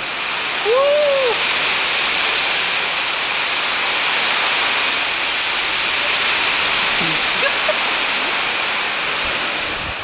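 Heavy thunderstorm downpour: rain pouring down in a steady, dense hiss.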